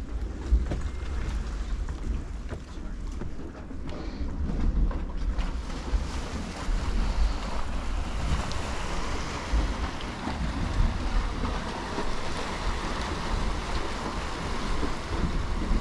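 Wind buffeting the microphone with a low rumble, over a rushing noise that swells about six seconds in.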